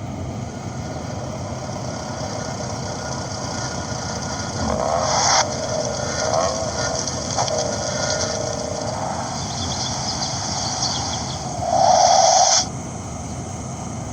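Truck engine running with a steady low rumble, a wavering tone in the middle, and a loud burst that cuts off suddenly near the end.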